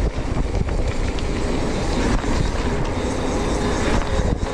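Ride noise from an e-bike on a dry dirt trail: wind rushing over the microphone and the tyres rumbling and rattling over the ground.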